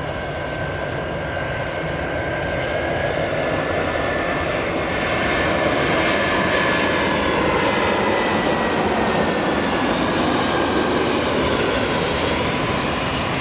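Jet airliner's engines passing by, a steady rush that builds toward the middle with a whine that rises slightly and then falls away as the aircraft goes past.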